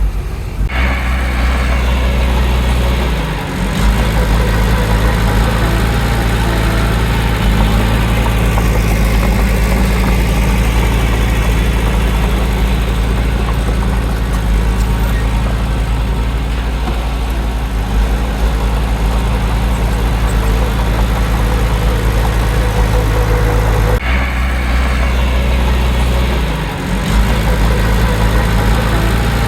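Heavy diesel engine of earthmoving machinery running steadily, with a low rumbling hum; its note changes a few seconds in and again near the end as the load shifts.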